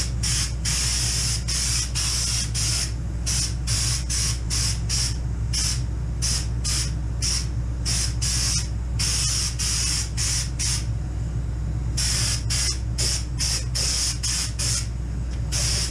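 Air-fed underseal spray gun spraying in short trigger bursts: a hiss that cuts in and out many times, with a few longer passes, over a steady low hum.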